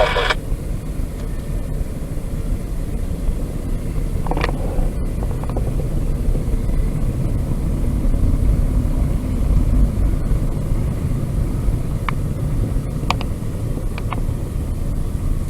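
Freight train cars rolling past with a steady low rumble of wheels on rail, a brief squeal about four seconds in and a few short clicks near the end.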